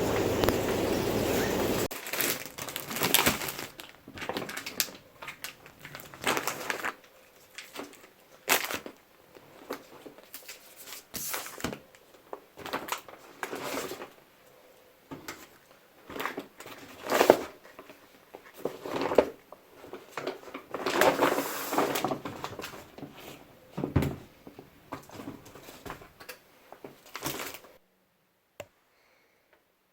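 Household handling sounds: a steady rushing noise that cuts off about two seconds in, then irregular rustling, crinkling and light knocks of things being moved and set down. The sounds stop about two seconds before the end.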